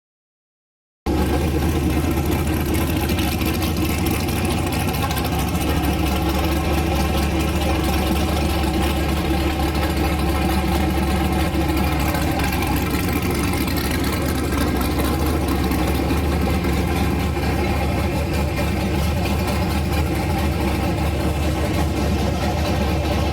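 Freshly rebuilt GM 5.3 L V8 with a Truck Norris camshaft, breathing through a carburetor and headers, idling steadily on an engine run stand. The sound cuts in abruptly about a second in.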